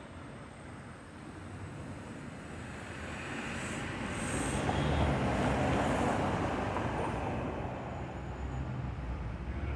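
A vehicle passing by: a broad rumbling noise that swells to a peak about five seconds in, then fades.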